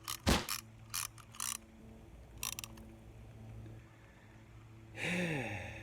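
Fishing reel clicking and ratcheting in several short bursts as the line works against a snag, the lure hung up in a tree. Near the end comes a short falling groan-like voice.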